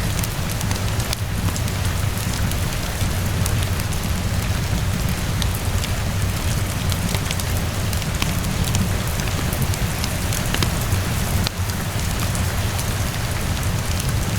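Steady rainfall hissing, with a wood fire crackling: many sharp, irregular crackles scattered over the rain, above a steady low rumble.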